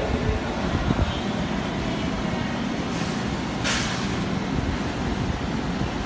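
A vehicle's engine running steadily, with a short hiss about three and a half seconds in.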